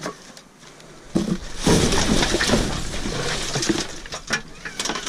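An aluminum grill being dragged and worked out of a dumpster: a dense stretch of scraping and rustling of trash, about a second and a half in and lasting a couple of seconds, with scattered clattering knocks.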